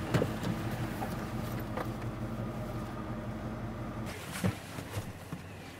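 Truck engine running steadily with a low hum, with a few faint knocks; the deepest part of the hum drops away about four seconds in.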